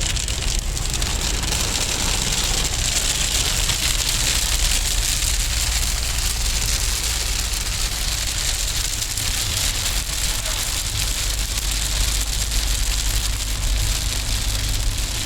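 Heavy downpour, a dense steady hiss of rain on a car, over the low steady rumble of the moving vehicle.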